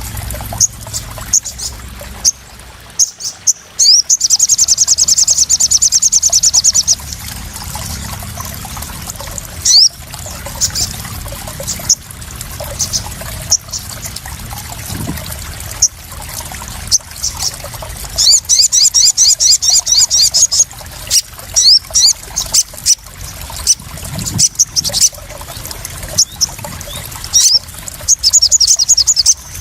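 Sogon (sunbird) calls: sharp high chips scattered throughout and three fast, high rattling trills, the longest about three seconds. Trickling and splashing water runs steadily underneath.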